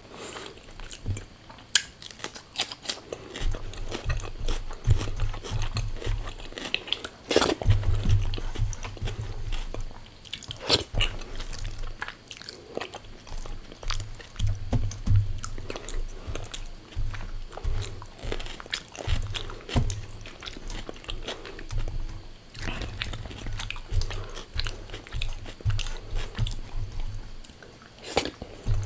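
Close-miked eating: irregular crunching and chewing of crisp fried food, with frequent sharp crunches.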